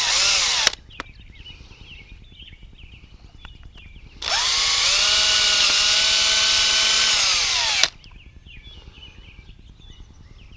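Electric drill boring the hole for a 1/4-20 bolt through a PVC pipe cap: a burst that stops under a second in, then a run of about three and a half seconds in the middle, the motor's pitch rising as it spins up, dipping slightly under load, and falling as it stops.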